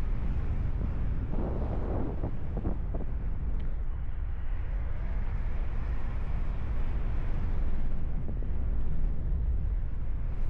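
Wind rushing over the microphone of a paraglider pilot in flight: a steady low rumble, with a brief louder rustle about one and a half to three seconds in.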